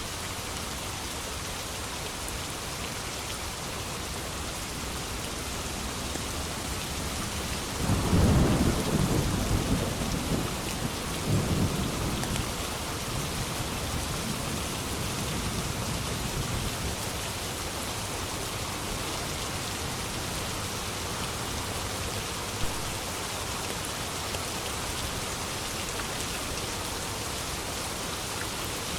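Steady heavy rain with a clap of thunder about a quarter of the way in, rolling and rumbling for several seconds before fading back under the rain.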